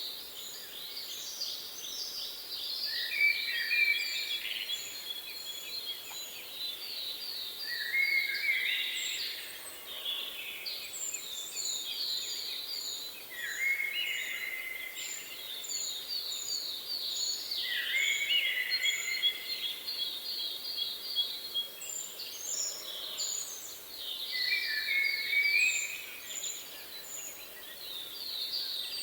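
Songbirds singing: a song of rapid high trills stepping down lower, repeated about every five seconds, with short, very high chirps from another bird in between, over a faint steady hiss.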